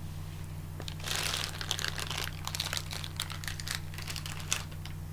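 Candy wrapper being crinkled and crumpled in the hands, a dense crackling with many sharp clicks that starts about a second in and lasts some three and a half seconds. A steady low hum runs underneath.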